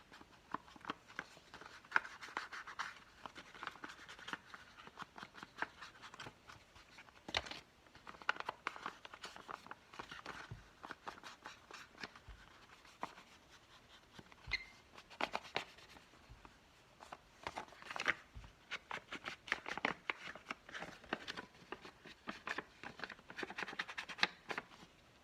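Ink being rubbed onto the edges of a paper envelope with a blending tool or ink pad: a run of faint, scratchy scrubbing strokes in short bursts with brief pauses.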